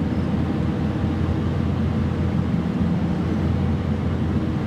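Boat engine running steadily: a continuous low drone with no breaks.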